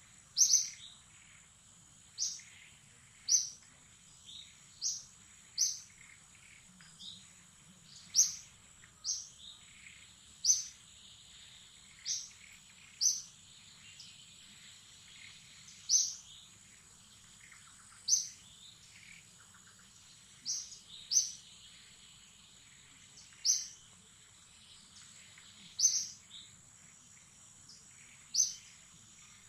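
Short, sharp bird chirps repeated every second or two, each a brief high note, over a steady high-pitched tone.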